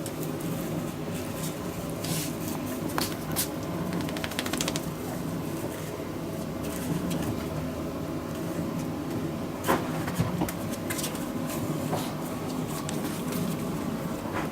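A steady low mechanical hum, with scattered sharp clicks and taps on top of it.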